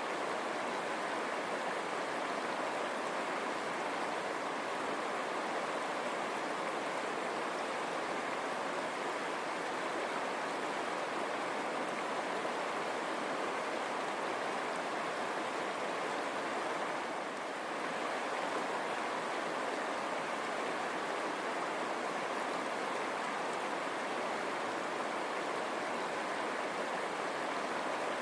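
River water running steadily over stones, a continuous rushing babble.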